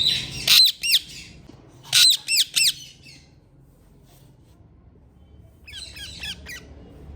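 Ringneck parakeets squawking: two loud, high calls within the first second, three quick ones about two seconds in, then a fainter run of short calls near the end.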